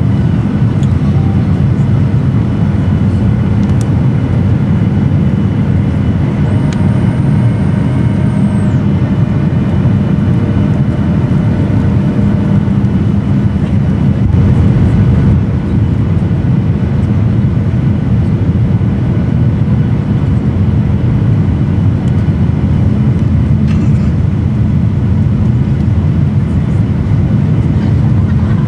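Steady, loud low rumble from inside a moving vehicle. A faint high whistle is held for about two seconds, starting around six and a half seconds in.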